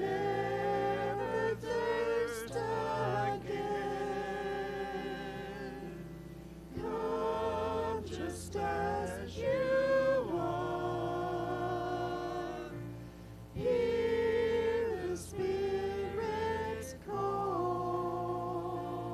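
Church congregation singing a slow worship song in phrases of long held notes, over sustained low accompaniment.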